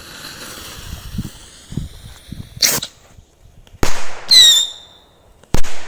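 Whistling firecrackers going off: a steady high whistle for about two and a half seconds, then a sharp bang, a second bang about a second later, a brief whistle, and a last loud bang near the end.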